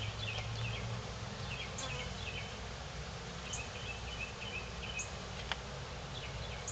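Honey bees buzzing around an opened beehive, a steady hum of many bees in flight.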